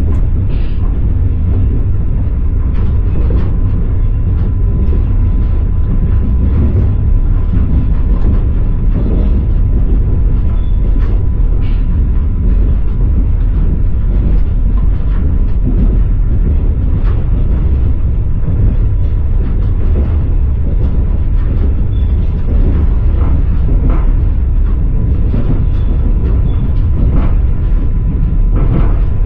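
Passenger railway carriage running along the track, heard from inside: a steady, heavy low rumble with the wheels knocking now and then over the rail joints.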